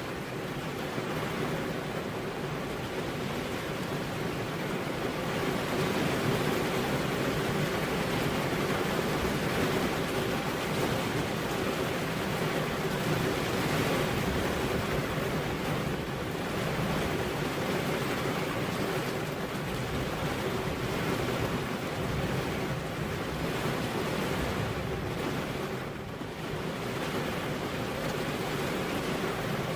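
Steady heavy rain, a dense even hiss of falling drops that swells a little and eases off briefly near the end.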